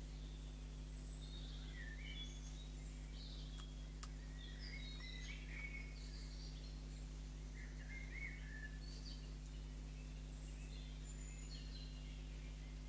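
Songbirds singing in short, scattered warbling and chirping phrases, over a steady low electrical hum.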